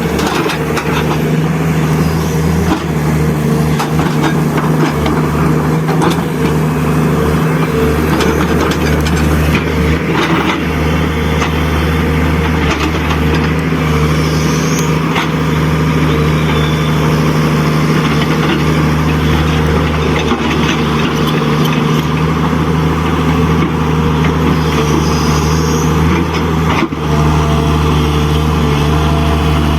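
Steady truck engine sound running evenly at a constant low pitch, with no revving.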